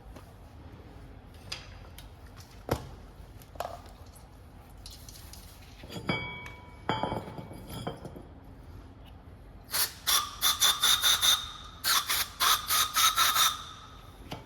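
Metal hand tools knocking and clicking during brake caliper work, then two quick bursts of rapid, ringing metallic clicks or squeaks, several a second, near the end.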